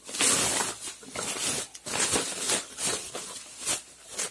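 Rustling and crinkling of packaging being handled and opened, in irregular bursts.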